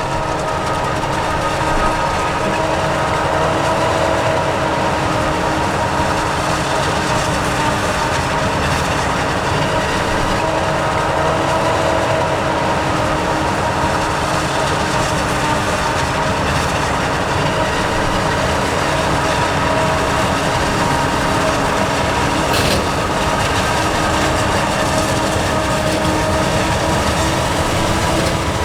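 Heavy farm machinery working a maize silage harvest, running steadily: a constant deep engine drone with several steady whining tones over it. A single brief click about two-thirds of the way through.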